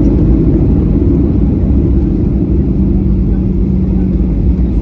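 Steady low rumble of an airliner's engines and airflow heard inside the passenger cabin, with a steady hum that comes in about two seconds in.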